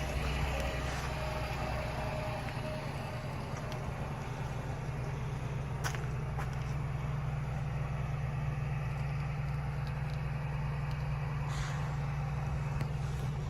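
2020 Ford Explorer Platinum's twin-turbo V6 idling steadily shortly after a cold start in freezing weather, with a couple of sharp clicks partway through.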